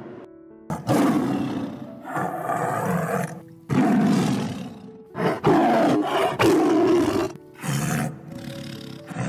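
Tiger roaring and snarling: a run of loud, rough roars, several in a row, starting about a second in.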